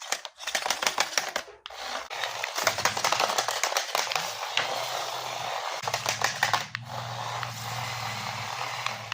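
Rapid plastic clicking and rattling from a battery-operated RC toy, with its small electric motor starting a steady hum about two and a half seconds in and running on.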